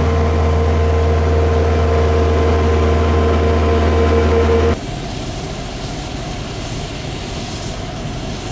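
A large engine running steadily, with a low hum and a held whining tone. About five seconds in it stops abruptly and gives way to a quieter, even rushing noise.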